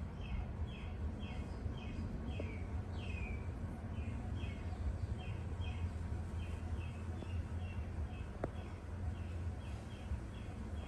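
A small bird chirping over and over, short falling chirps about two to three a second, over a steady low background rumble.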